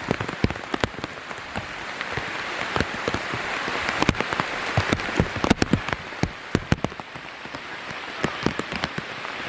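Heavy downpour hissing steadily, with many sharp taps of large raindrops striking the plastic bag wrapped over the camera.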